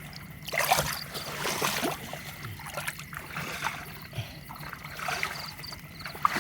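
Water splashing and sloshing in shallow canal water in irregular surges, with a low steady hum underneath.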